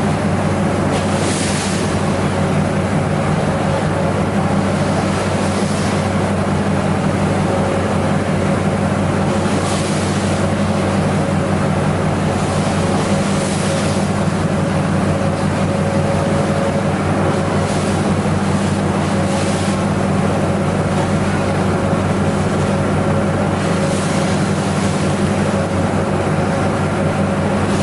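A ferry's engines drone steadily with a constant low hum and a fixed higher tone. A rushing noise of wind and water swells briefly every few seconds.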